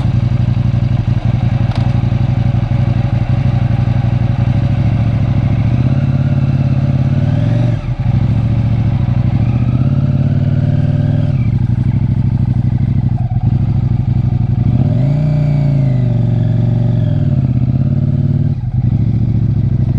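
Motorcycle engine under way, pulling through the gears: the revs climb and drop back several times, with brief dips at each gear change.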